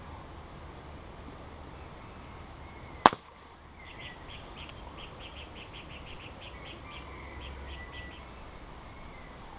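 A single sharp crack about three seconds in, the loudest thing heard, then a bird calling a rapid series of short high notes, about four or five a second, for around four seconds, over steady background noise.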